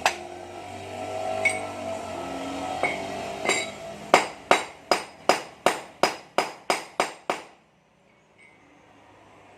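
A hammer striking metal: a few single ringing blows, then a quick run of about ten even strikes, nearly three a second, that stops suddenly.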